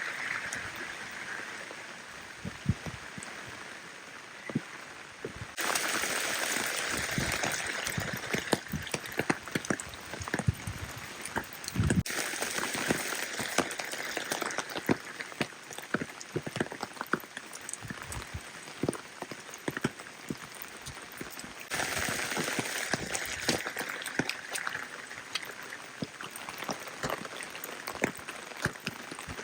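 Rain falling steadily: an even hiss with many individual drops ticking through it. The hiss gets abruptly louder about six seconds in and again about twenty-two seconds in.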